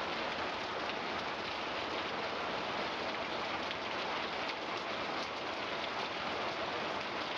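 Heavy rain falling steadily: a dense, even hiss of drops striking surfaces, with no let-up.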